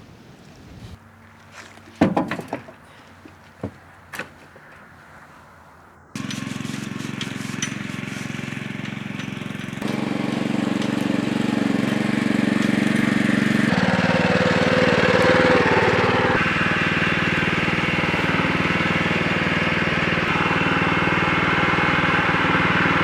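A few sharp knocks, then a small engine starts abruptly about six seconds in and runs steadily, getting louder in two steps.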